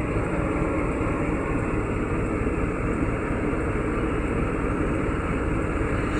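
Steady engine and road rumble of a pickup truck being driven, deep and even throughout.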